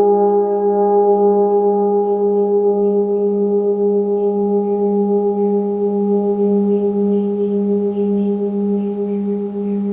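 A sound-bath metal instrument ringing on: a steady low hum that wavers in a slow, even pulse, with a stack of higher overtones above it, fading slowly.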